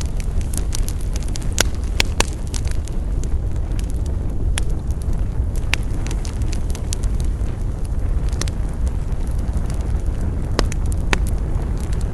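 Wood fire burning: a steady low rumble of flames with irregular sharp crackles and pops, a few louder snaps scattered through.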